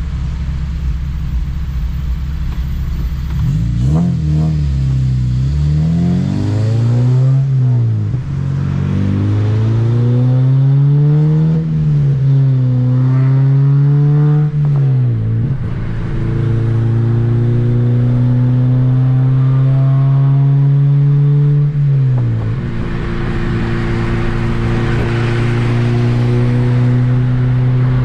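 2007 Honda Civic Si's 2.0-litre four-cylinder engine, heard from inside the car, accelerating hard through the gears. After a few seconds of steady drone, its pitch climbs and drops sharply at each upshift, four times. It then holds a steadier note with growing road and wind noise near the end.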